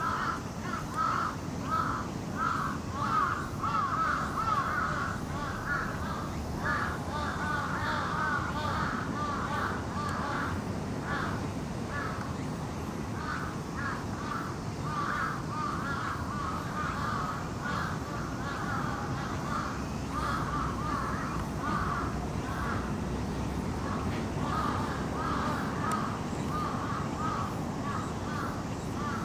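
Birds calling over and over outdoors, in runs of short repeated calls, over a steady low background noise.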